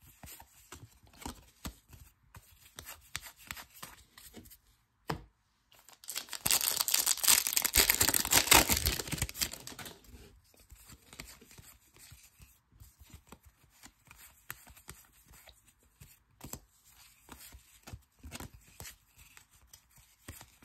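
A baseball card pack's wrapper being torn open, loudest for a few seconds in the middle. Before and after it come light rustles and clicks of trading cards being handled and flicked through.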